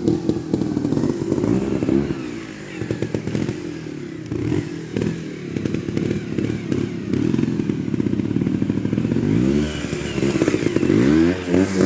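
Trials motorcycle engine running at low speed, blipped in short, uneven bursts of throttle, with a few knocks and clatters from the bike. Near the end the revs rise and fall more strongly, several times.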